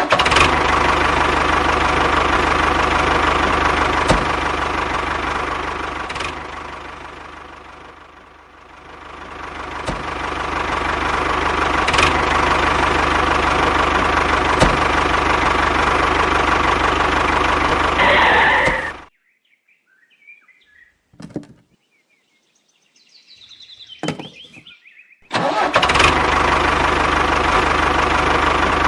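Engine running steadily. It dips and swells back in the first third, cuts off abruptly about two-thirds in, and starts again abruptly near the end.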